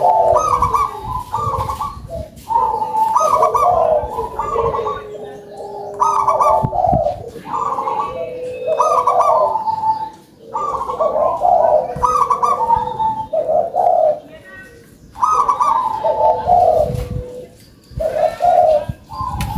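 Zebra dove (perkutut) cooing, phrase after phrase with short pauses between, each phrase a run of quick notes.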